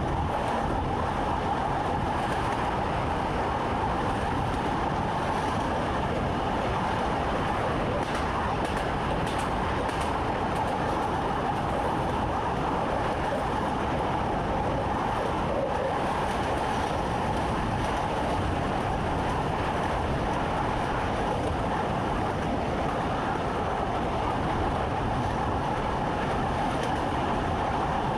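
Train running at steady speed, heard from inside the driver's cab: an even running noise with a constant hum throughout.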